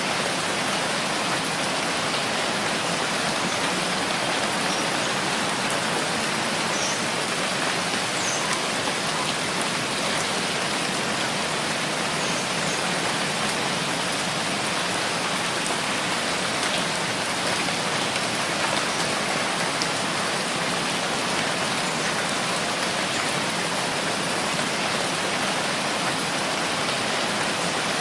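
Steady rainfall, an even, unbroken hiss of rain falling on surfaces.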